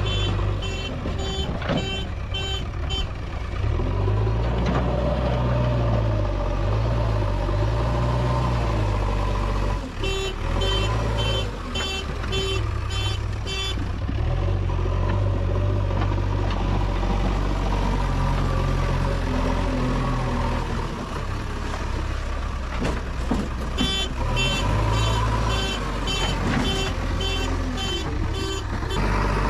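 JCB 3DX backhoe loader's diesel engine running steadily, its pitch rising and falling as it revs under load. A reversing alarm beeps about twice a second in three spells: at the start, mid-way, and near the end.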